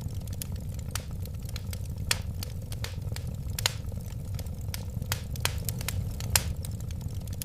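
Wood fire burning in a fireplace: irregular sharp crackles and pops, several a second with a few louder snaps, over a steady low rumble of the flames.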